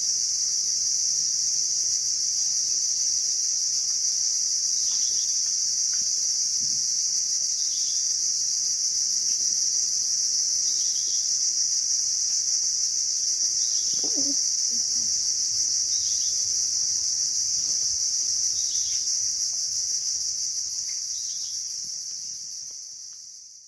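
Steady, high-pitched insect chorus, with faint short chirps every few seconds; it fades out near the end.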